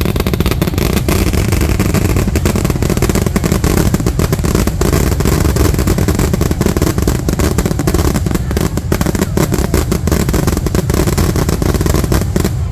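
Fireworks going off in a dense, unbroken barrage of many overlapping booms and crackles.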